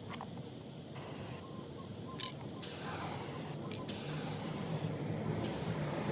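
Aerosol spray-paint can with a fan nozzle hissing in several short bursts with brief pauses between them, laying a coat of colour-matched paint onto a car panel. There is one sharp click about two seconds in.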